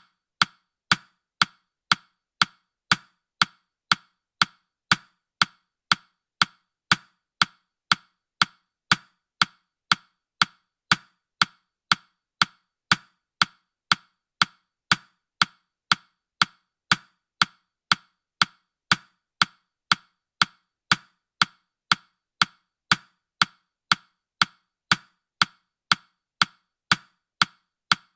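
Countdown-timer ticking sound effect: a sharp, woody click repeating steadily about twice a second.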